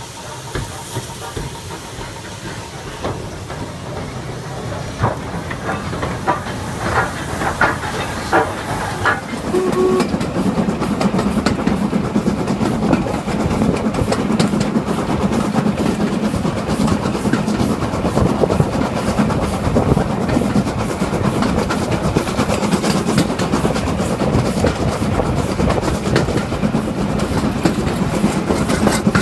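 Heritage railway train running on the track, its wheels clattering over the rails, with a hiss of steam. About ten seconds in, the running becomes louder and steadier.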